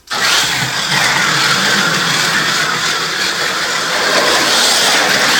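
1/43-scale slot cars running on a plastic track: their small electric motors whining at speed, with the rushing noise of the cars on the track. It starts abruptly and holds steady.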